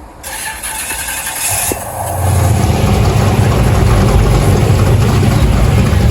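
Car engine running with a deep, loud rumble that swells in about two seconds in, after a brief hiss at the start.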